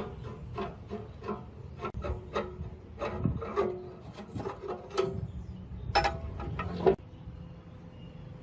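Rhythmic hand scraping strokes, about three a second, stopping about seven seconds in; a steady low hum runs underneath and remains after.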